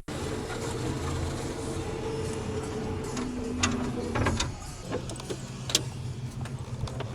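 A steady low mechanical hum with a few light clicks and knocks scattered through it.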